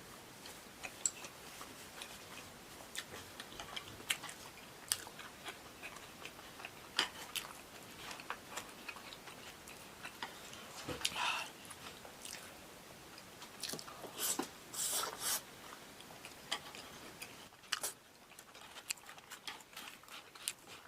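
Close-miked chewing and biting of starch-coated fried eggplant with minced beef sauce, with wet mouth smacks and scattered sharp clicks. A few louder smacking bursts come about 11 and 14 to 15 seconds in.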